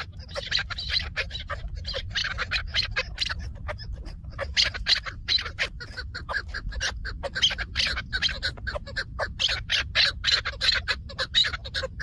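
Chukar partridge calling: a rapid, unbroken series of short repeated calls, over a steady low rumble.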